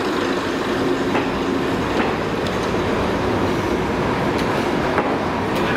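Passenger train coaches rolling past close by, a steady rumble with a few sharp clicks as the wheels cross rail joints.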